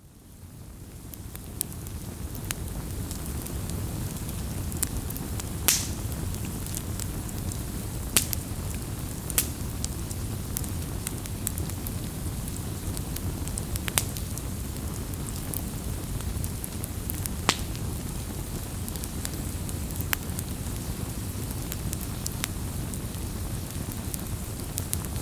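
Wood fire burning: a steady low rumble of flame with sharp crackles and pops every few seconds, fading in over the first second or two.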